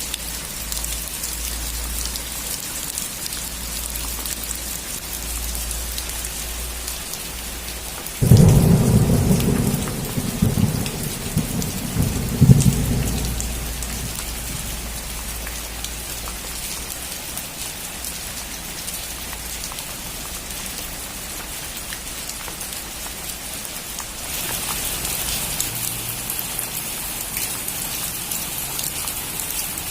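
Steady rain falling on a roof, with a sudden clap of thunder about eight seconds in that rumbles for five or six seconds, cracks again near its end, then dies away. Near the end the rain becomes louder and hissier.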